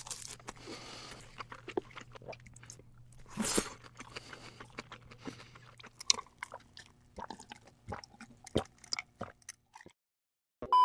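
Close-miked chewing, biting and crunching of giant crab in spicy sauce, a stream of short wet clicks and crackles. The sound cuts off about a second before the end.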